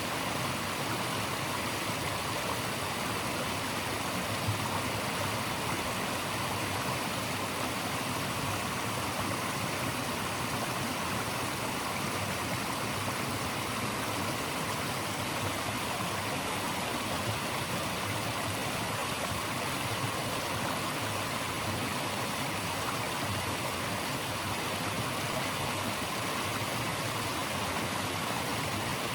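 Steady rush of flowing water from a stream or cascade, an even hiss that does not change.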